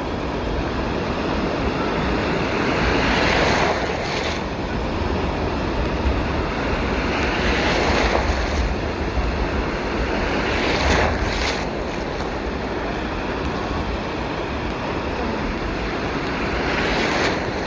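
Rough, stormy sea surf: waves breaking and washing on the shore, swelling louder about four times, every three to five seconds, with wind rumbling on the microphone.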